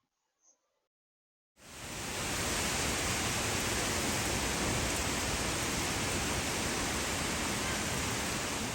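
A steady, even hiss that starts abruptly about one and a half seconds in, after near silence, and spreads across all pitches with no distinct calls, knocks or rhythm.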